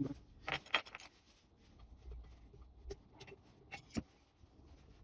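A few sharp clicks and light knocks of small engine parts being handled on the bench: a quick cluster about a second in, then single ones around three and four seconds in.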